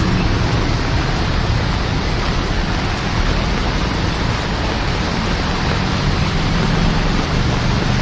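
Steady hiss of heavy rain, with a low rumble underneath that grows a little near the end.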